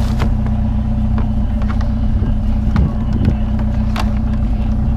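Vehicle engine idling steadily, with a few sharp knocks and light clatter from items being handled.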